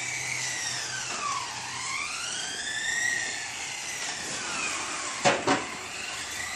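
Motors of 1/10-scale RC race cars whining, the pitch dropping and climbing again as the cars slow and speed up around the track. Two sharp knocks about five seconds in.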